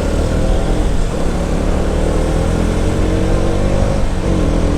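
Motorcycle running on the road with heavy wind rush on the microphone. The engine note climbs slowly, dips briefly near the end, then rises again.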